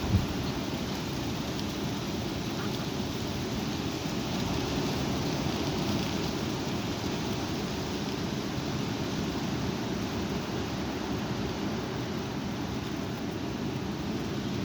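High wind blowing steadily, with a low rumble of gusts on the microphone. There is a brief low thump just after the start.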